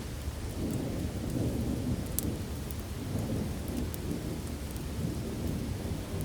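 Steady heavy rain with a low, continuous rumble of thunder, and a few faint sharp ticks.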